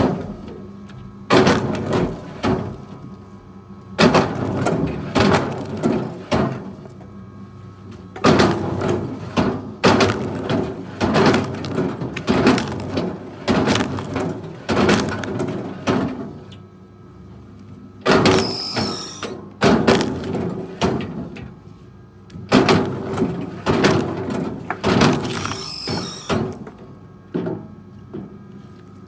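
Wood being worked by heavy machinery: a run of sharp cracks and knocks of wood, roughly one or two a second, over a steady engine hum. A brief high squeal comes twice, about two-thirds of the way through and near the end.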